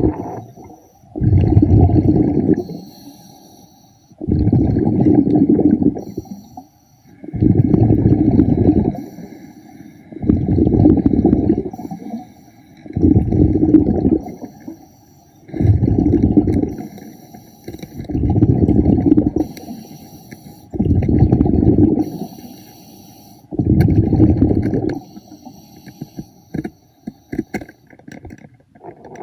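A scuba diver's exhaled breath bubbling out of the regulator underwater, nine rumbling bursts of bubbles at a steady breathing rhythm of about one every three seconds, then only faint crackling near the end.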